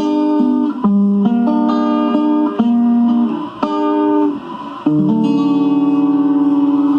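Guitar picking a run of single notes as a song closes, then a final chord struck about five seconds in and left ringing with a steady wavering in its level.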